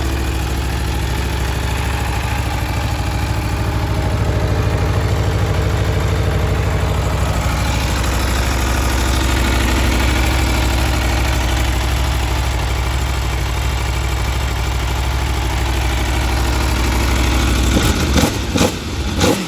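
Aprilia Tuono V4 1100's V4 engine idling steadily through its standard exhaust, a deep, really throaty note. A few short, sharp sounds near the end.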